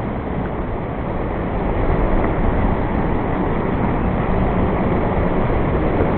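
Steady rushing noise, dense and low, growing a little louder about two seconds in.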